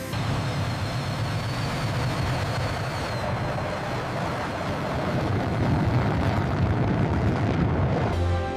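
Jet engine starting up and running: a steady loud rush with a faint high whine that rises slightly and fades about three seconds in. The noise stops near the end.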